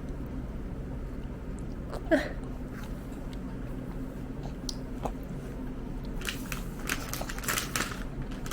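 A toddler eating, with chewing and wet mouth clicks over a steady low hum. About two seconds in comes a short, loud vocal sound that slides in pitch, and near the end a quick run of smacking, clicking eating noises.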